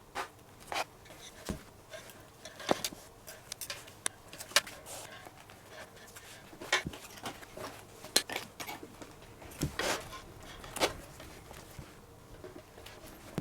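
Handling noise from relacing a leather baseball glove: irregular rustles, light taps and clicks as the glove and its leather lace are worked by hand.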